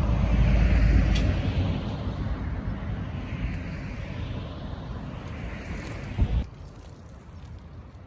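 Heavy low rumble of wind and road noise while riding along a street, loudest in the first couple of seconds and easing off, then cutting off abruptly about six and a half seconds in.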